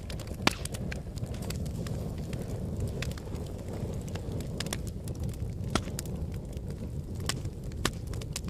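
Wood fire burning in a fireplace: a steady low rumble of flames with irregular sharp crackles and pops, the loudest pop about half a second in.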